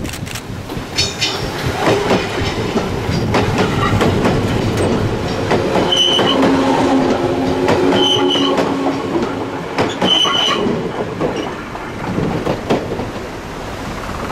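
Odakyu 1000 series electric train passing close by, its wheels clicking over rail joints. Three short high-pitched wheel squeals come about two seconds apart in the middle, over a steady motor hum.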